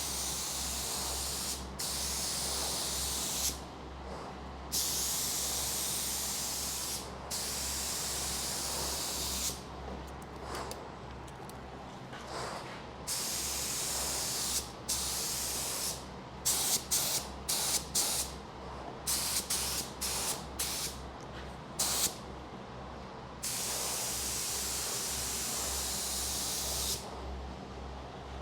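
Compressed-air spray gun spraying epoxy primer, the hiss starting and stopping with the trigger: long passes broken by short pauses, and a run of quick short bursts past the middle. A steady low hum runs underneath.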